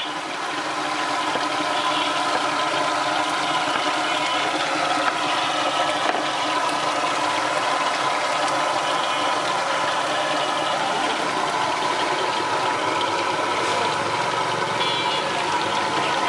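Chicken skewers sizzling in oil on a flat street-stall griddle, mixed with a steady engine hum from nearby traffic. Brief beeps sound near the end.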